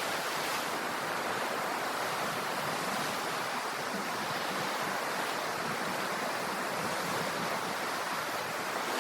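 Ocean waves and surf, a steady, even wash of water noise.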